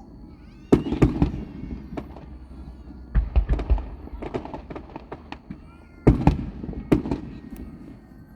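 Aerial fireworks bursting overhead: loud sharp booms about a second in, a quick cluster of reports around the middle, and two more near the end, each trailed by crackling and echo.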